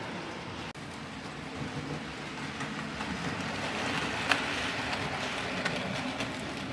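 Model railway train, a steam locomotive pulling carriages, running on the layout track: a steady rumble of motor and wheels on the rails that grows a little louder towards the middle, with a sharp click about four seconds in.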